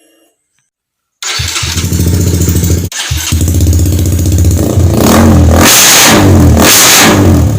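Motorcycle engine running loudly. It cuts in suddenly about a second in, breaks off for an instant near three seconds, and is revved twice in the second half.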